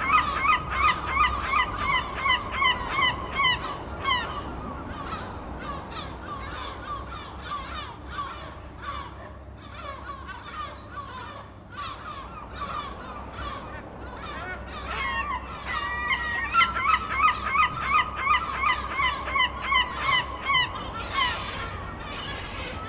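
Gulls squawking in fast repeated series of loud, harsh calls, several birds at once. The calling thins out about four seconds in and swells again in the second half.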